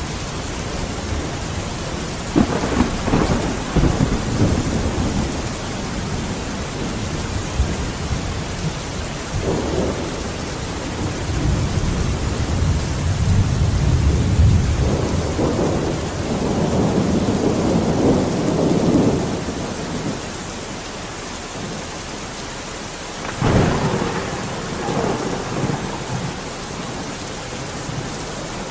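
Steady heavy rain with rolling thunder: low rumbles swell and fade several times, with a sharper clap of thunder about three-quarters of the way through.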